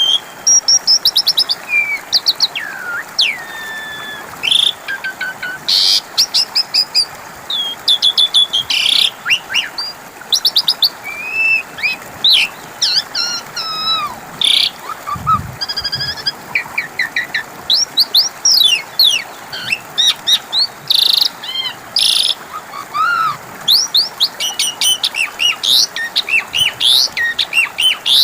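Pied starling (jalak suren) singing a dense, varied song of whistles, rising and falling slurs, quick trills and harsh chattering notes in short, rapid phrases.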